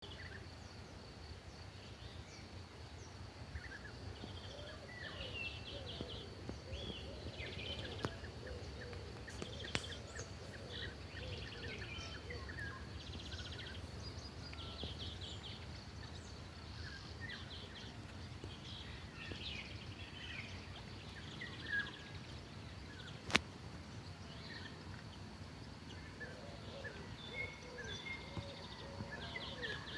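Several birds chirping and trilling over a low steady rumble, with a faint steady high whine and a few sharp clicks, the loudest about three quarters of the way through.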